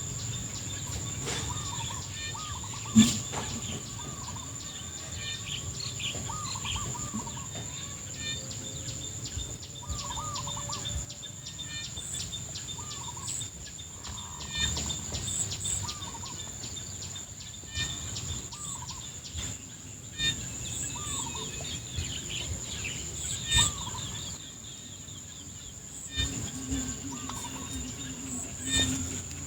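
Birds calling repeatedly in short looping calls over a steady, high-pitched insect drone, with a single sharp knock about three seconds in.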